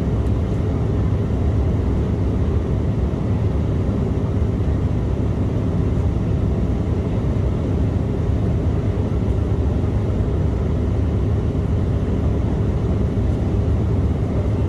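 Steady low cabin rumble inside an Embraer E175 jet airliner, its twin jet engines running at an even power.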